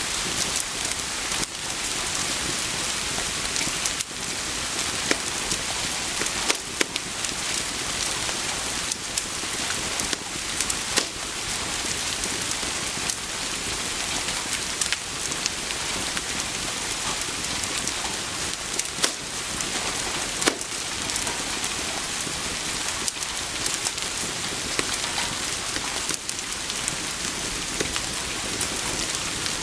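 Steady rain: an even hiss dotted with many sharp ticks and pops.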